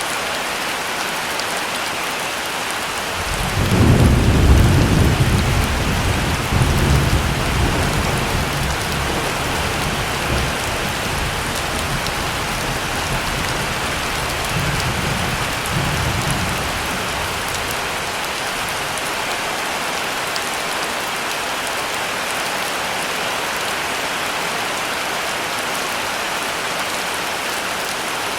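Heavy rain falling steadily, with a roll of thunder that starts about three seconds in, rumbles loudest for a couple of seconds, swells again twice and dies away after about seventeen seconds.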